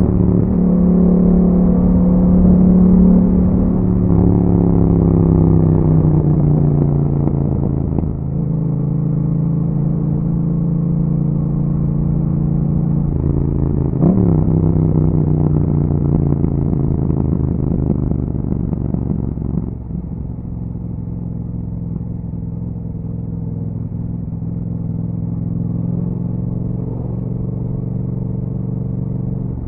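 2021 Yamaha MT-07's 689 cc parallel-twin engine running through an Akrapovic exhaust with a dB killer while riding. Its pitch rises briefly, then falls off as the bike slows. About halfway through there is a sharp short rev blip, after which it falls again and settles into steady low running.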